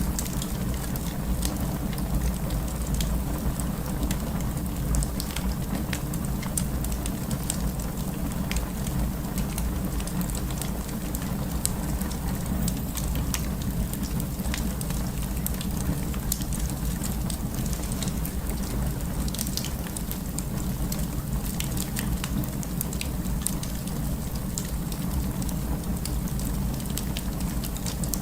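Wood fire burning, crackling with many scattered sharp pops and snaps over a steady low rumble.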